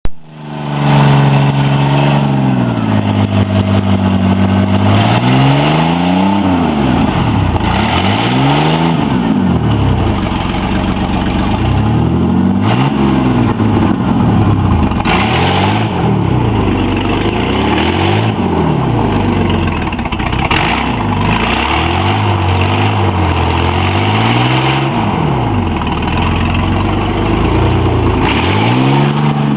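Homemade mud truck's engine running and being revved up and down over and over, a rise and fall every few seconds.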